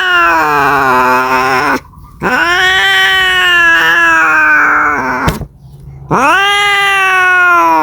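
Domestic cat caterwauling: three long, drawn-out yowls with short breaks between them, each rising then sagging in pitch, the kind of call a cat makes when calling for a mate.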